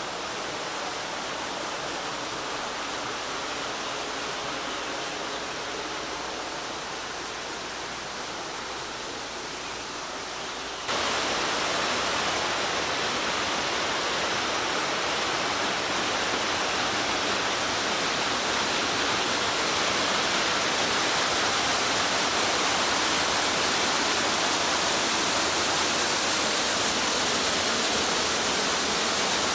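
Waterfall: a steady rush of falling water, stepping up suddenly to a louder rush about eleven seconds in.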